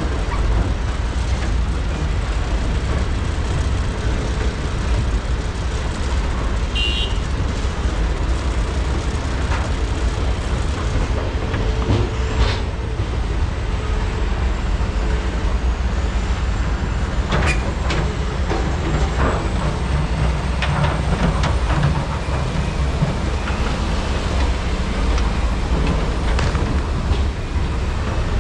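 Diesel engines of hydraulic excavators (a Komatsu PC395 and SANY SY485Hs) running steadily under load while truck loading, with several sharp metallic knocks about 12 s, 17 s and 20 s in and a brief high squeal about 7 s in.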